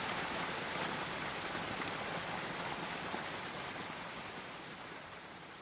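Steady rain with an even hiss, slowly fading out.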